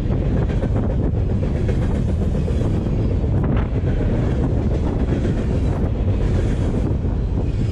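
Freight train of empty container flatcars rolling past at track level, a steady low rumble of wheels on rail with a few faint clicks. Wind buffets the microphone.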